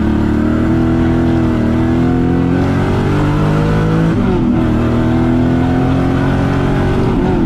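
LS V8 engine in a Nissan 350Z pulling under load, its note climbing slowly, dipping briefly about four seconds in, then climbing again before falling away at the end.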